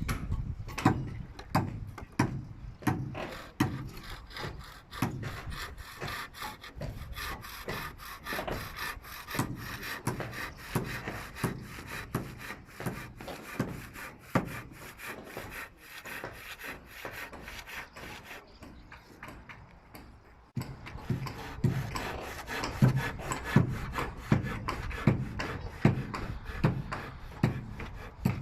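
Hand saw cutting timber in steady back-and-forth strokes, about two a second, with a short break about twenty seconds in.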